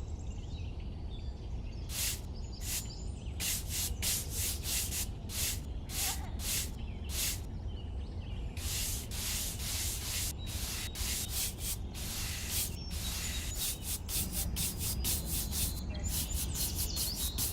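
Sandpaper rubbed by hand over wood in short, uneven back-and-forth strokes, about two or three a second, starting about two seconds in, over a steady low hum.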